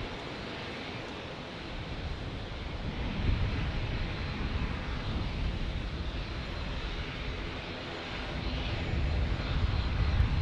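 Boeing 787 Dreamliner's jet engines on final approach for landing: a steady rushing engine noise with a low rumble that grows louder near the end.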